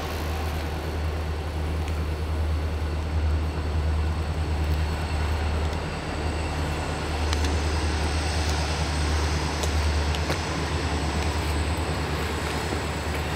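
Steady low rumble of a passing freight train, with a hiss of rail and wheel noise over it that swells and eases a little; faint clicks come and go.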